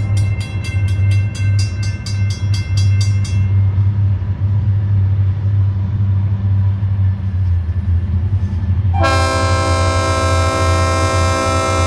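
Diesel locomotive running with a steady low rumble while its multi-chime air horn sounds a chord for about the first three seconds, over a quick regular ringing of about four strokes a second. The horn blasts again from about nine seconds in.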